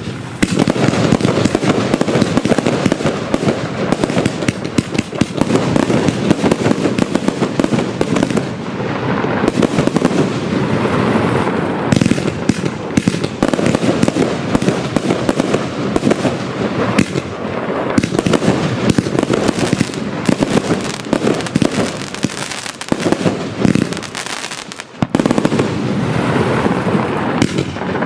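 Pyro Produkt Ultymum firework compound cake (139 shots, 25 and 30 mm calibre) firing continuously: a rapid, dense run of launch thumps and bursts with crackling. There is a brief lull about 24 seconds in before the barrage picks up again.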